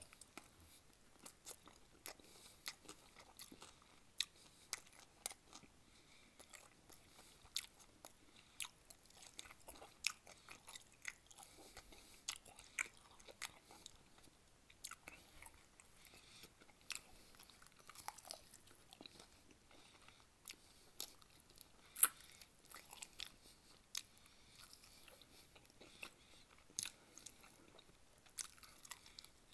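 Close-miked eating of sauced chicken wings: biting and chewing with wet mouth smacks and crisp crunches at irregular intervals, one much louder click about two-thirds of the way through.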